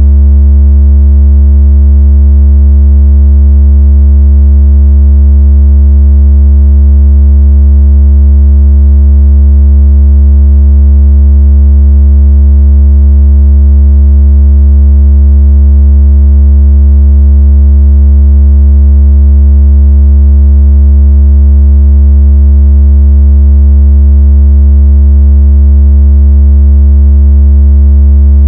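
A continuous, very loud, deep synthesized tone with fainter higher overtones, steady and unchanging. It is the kind of bass tone played through a phone to imitate strong vibration and to shake water out of the phone's speaker.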